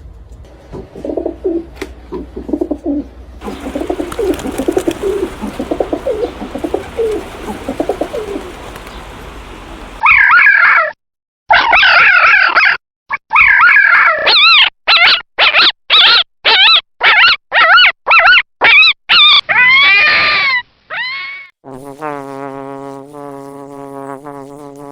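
A sequence of different animal calls: low, soft calls for the first ten seconds, then loud, high calls repeated about twice a second, then a steady droning buzz near the end.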